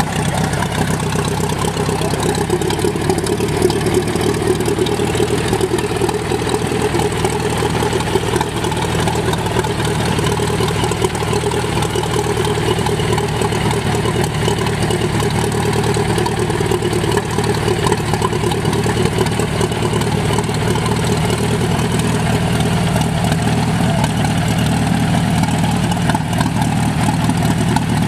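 Old tractor engine running steadily at idle, with an even, unchanging note.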